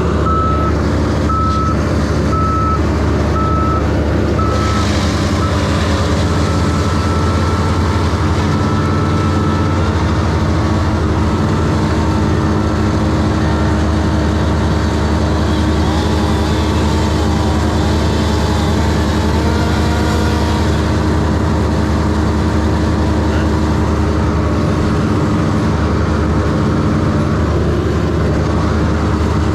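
Heavy machine's engine running steadily, with its reversing alarm beeping in the first few seconds and again near the end as it backs up.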